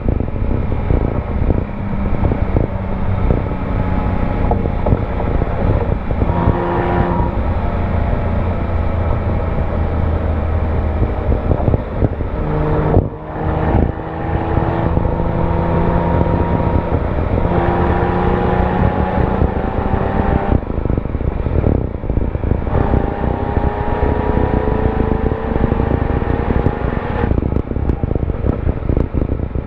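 Porsche 997 Carrera S's 3.8-litre flat-six heard at the rear mufflers while driving. The exhaust note runs in long stretches broken by brief dips, the sharpest about 13 seconds in, as gears change. Wind and road rush sit underneath.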